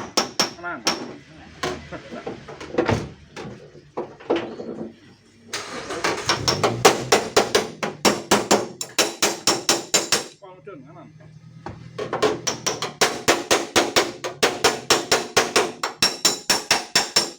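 Rapid hammer taps on the sheet steel of a car's tailgate, about five or six a second in long runs with short pauses: knocking out a dent from the panel. A low steady hum runs underneath in the second half.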